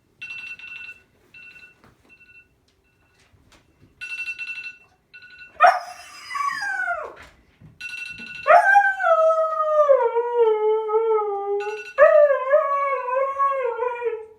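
A phone alarm beeping in short repeated bursts, and a Siberian husky howling back at it. The husky gives a short falling wail about five and a half seconds in, then two long howls that slide down in pitch, with alarm beeps in between.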